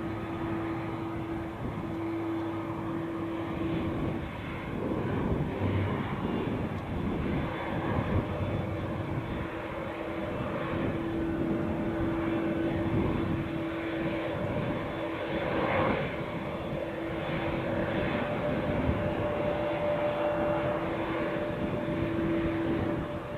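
Airplane engines running steadily: a continuous rushing noise with a constant droning tone, joined by a second, higher tone in the last third.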